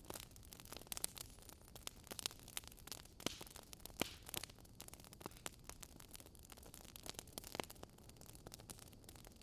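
Wood fire crackling: frequent irregular pops and snaps over a soft steady hiss, a few sharper pops standing out.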